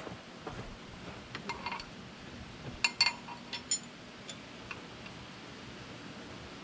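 A few light metallic clinks and ticks from a hand wrench being handled and fitted onto steel bolts, clustered in the first half, with the sharpest ones about three seconds in.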